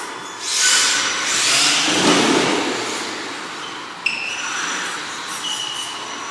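RC trucks driving, their small motors running with a thin high whine, and a sharp click about four seconds in.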